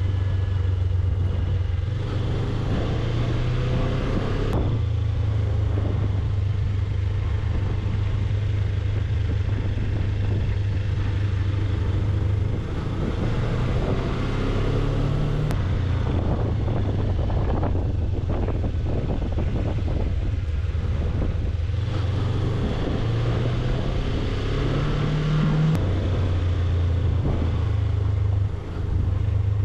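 Suzuki V-Strom 250's parallel-twin engine running as the motorcycle is ridden. The engine note steps up and down several times with throttle and gear changes, and there are a couple of brief dips in level.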